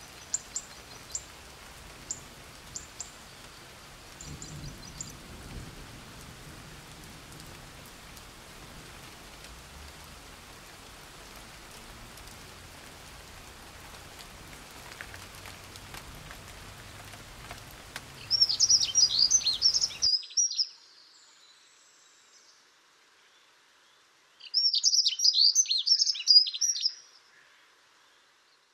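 Faint outdoor background with scattered high chirps, then two loud bursts of rapid, high-pitched bird calls, each about two seconds long. The second burst sounds against silence.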